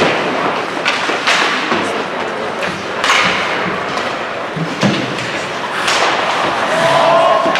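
Ice hockey play on a rink: skate blades scraping across the ice in repeated swishes, with thuds and knocks of puck, sticks and bodies against the boards.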